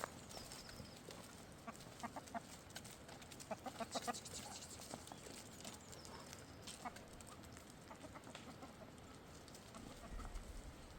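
Chickens clucking faintly in short scattered calls, with the busiest and loudest cluster about four seconds in.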